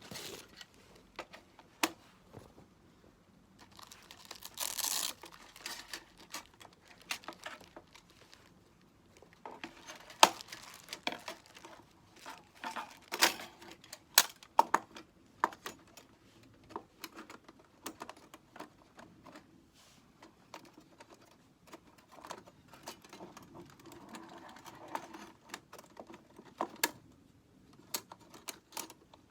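Small hard objects being handled and set down: irregular clicks and knocks, with a burst of rustling about five seconds in and softer rustling later.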